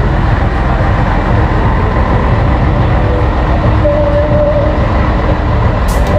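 Scania 113H truck's diesel engine running with a steady low rumble. A thin whine is heard briefly over it about four seconds in.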